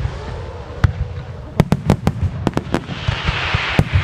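Aerial firework salutes and shells bursting in a fireworks finale: a rapid, uneven series of sharp bangs over a continuous low rumble, with a dense hiss rising about three seconds in.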